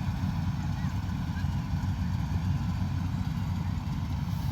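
Combine harvester running steadily, a low, even engine drone without change in speed.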